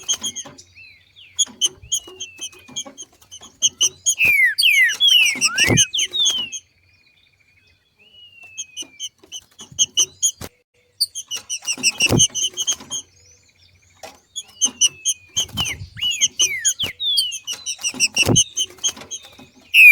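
Green-winged saltator (trinca-ferro) giving its 'macheado' calls: bouts of rapid, sharp chipping notes mixed with quick falling whistles, broken by short pauses about a third of the way in and again later. A dull low thump sounds about every six seconds.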